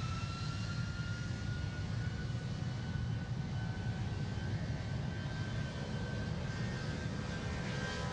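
Jet airliner's turbofan engines at takeoff power: a steady low rumble with a high whine that slowly rises in pitch.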